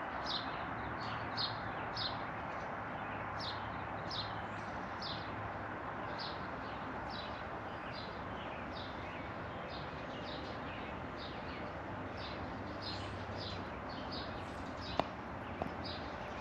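A small bird chirping over and over, short quick high notes about twice a second, over a steady background hiss. Two or three light clicks come near the end.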